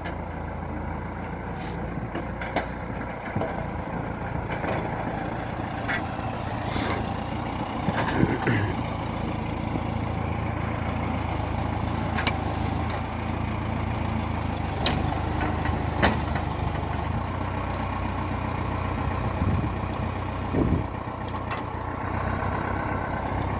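Valmet 705 tractor's diesel engine running steadily, with a few short knocks and clanks now and then.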